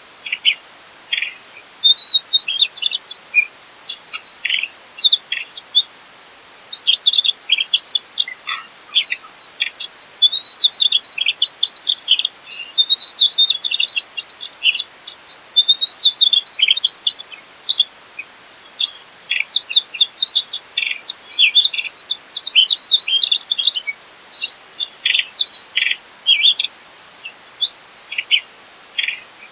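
Mugimaki flycatcher singing a long, rapid, varied twittering song of high chirps and short trills, with only brief pauses.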